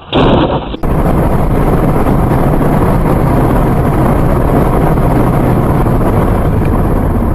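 Steady, loud road and wind noise from a moving car, as picked up by a dashcam, after a brief loud burst in the first second.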